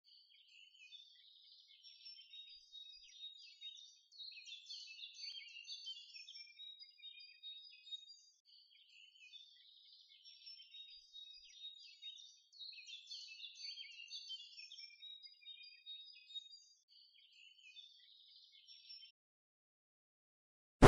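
Faint chirping and twittering of small birds, a busy run of short high calls that stops shortly before the end.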